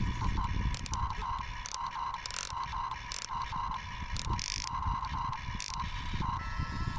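Electric motors and gearboxes of a radio-controlled Huina 1550 excavator whirring in short stop-start bursts as it works, over a low rumble.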